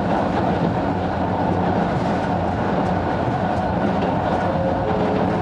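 762 mm narrow-gauge 270-series electric train running at speed, heard from inside the car: a steady rumble of wheels and running gear with light clicks of the rails.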